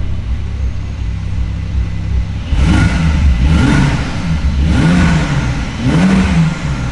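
Porsche 992 Carrera S twin-turbo flat-six with an IPE OPF-delete full exhaust, exhaust valves closed, idling steadily and then blipped about four times from about two and a half seconds in, each rev rising and falling quickly.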